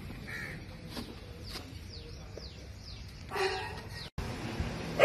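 Birds calling outdoors: a run of short, falling high chirps, then a louder, harsh call a little over three seconds in.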